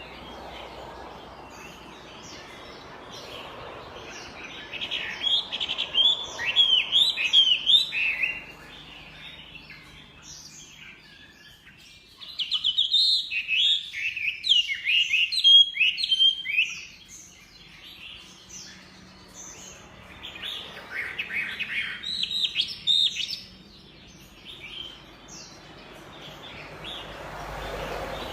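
Chinese hwamei singing: three loud bursts of rapid, varied whistled notes, each a few seconds long, with pauses between them.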